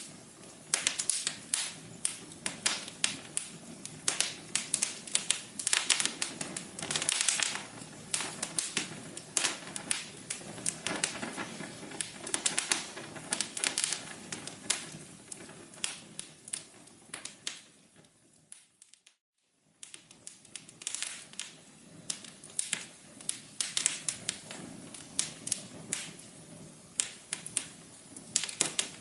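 Wood fire crackling, with irregular sharp pops and snaps over a low hiss. About two-thirds of the way in the sound fades out to near silence for about a second, then the crackling comes back.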